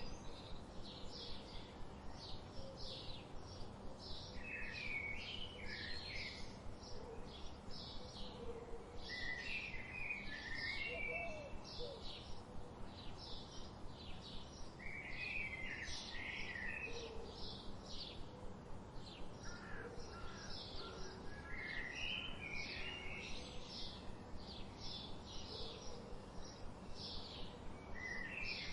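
Songbirds singing: a steady run of short, high chirps about two a second, with a lower warbled song phrase repeating every five seconds or so.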